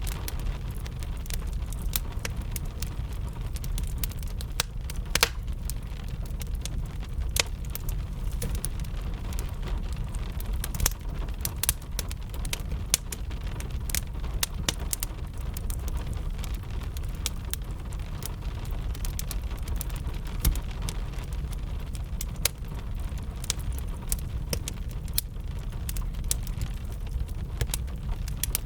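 Wood fire crackling, with many sharp pops at irregular intervals, over a steady patter of rain and a constant low rumble.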